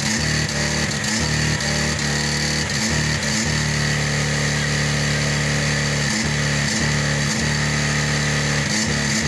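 Tow truck's engine running hard and continuously, its revs wavering for the first few seconds and then held steady, with brief dips about six and nine seconds in. The engine is being deliberately run until it fails.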